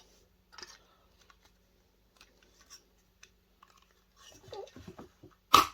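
Hand tools working at a projector's plastic casing to free a brass screw insert: scattered small clicks and scrapes, a short run of plastic crunching about four seconds in, then one sharp snap just before the end.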